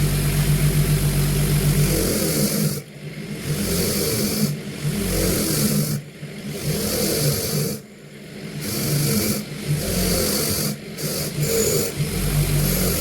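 A motor-driven power tool humming steadily, then running in stretches with brief stops.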